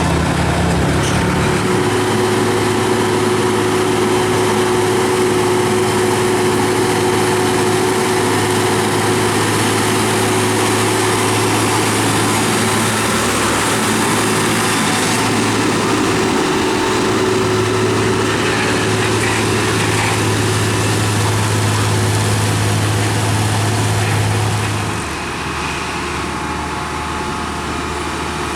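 Heavy diesel truck traffic: engines running steadily under load with road noise and a strong low hum, which falls away about 25 seconds in as a truck moves off.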